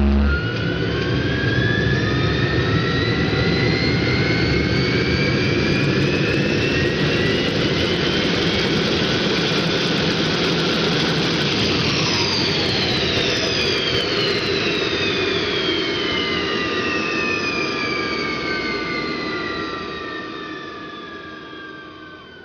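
Jet Provost's Armstrong Siddeley Viper turbojet running, with its whine climbing steadily in pitch. From about halfway the whine falls in pitch as the engine winds down, and the sound fades away near the end.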